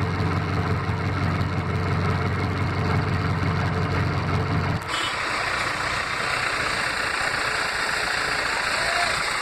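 Heavy diesel engine running steadily at a low pitch. About five seconds in the engine sound cuts off abruptly and a steady hiss takes over.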